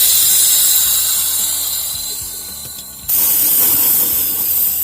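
Compressed air hissing out of a car's air suspension bags as they are let down. The hiss fades over about three seconds, then a second loud hiss starts suddenly and fades again.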